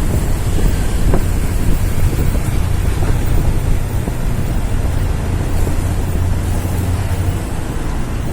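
Scania P380 heavy truck's diesel engine running under load, a steady low drone that eases slightly near the end, with wind rushing over the microphone.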